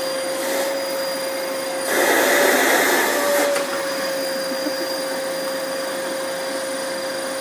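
Vacuum cleaner running steadily with a constant whine and rush of air; about two seconds in the suction grows louder and rougher for a second and a half, then settles back to the steady note.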